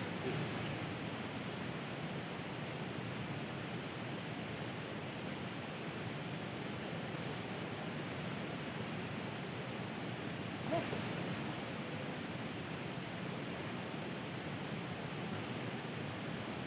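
Steady water noise, a constant even hiss, with one short tap about eleven seconds in.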